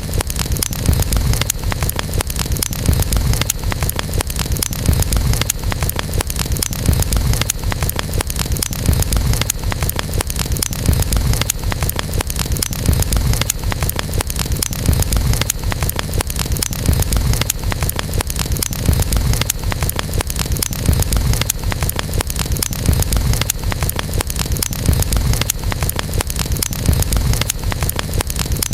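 Campfire crackling steadily with dense small pops and snaps over a continuous low rumble.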